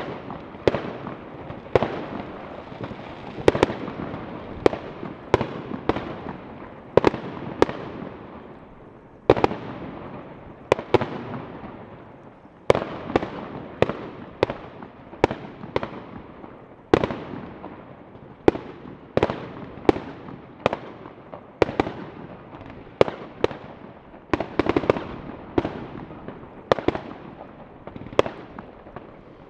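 Fireworks going off, a run of sharp bangs about once a second, each fading away in an echo, over a constant background of more distant bangs.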